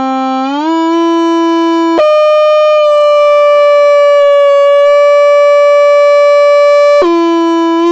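A loud, sustained pitched tone rich in overtones. It slides up and settles, jumps higher about two seconds in and holds steady, then drops back down near the end.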